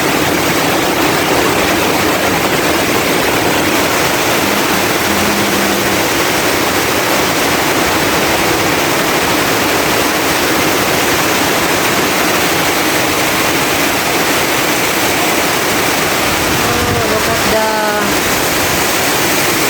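Heavy typhoon rain pouring down, a loud, steady, even hiss that does not let up.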